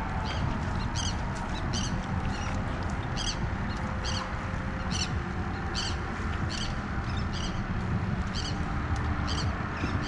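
A bird chirping over and over, short high chirps about every half second to a second, over a steady low outdoor rumble.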